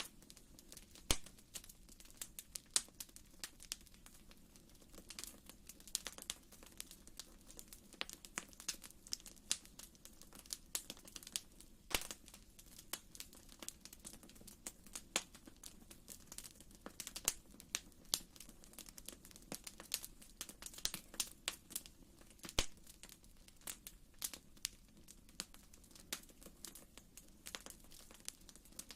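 Wood fire in a fireplace crackling: irregular sharp pops and snaps, a few stronger ones standing out, over a faint steady low rumble.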